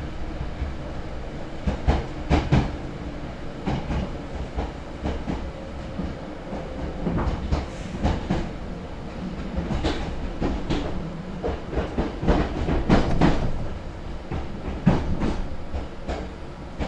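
A Hankyu 6300 series electric train running, heard from inside the carriage: a steady rumble with irregular sharp clacks as the wheels pass over rail joints.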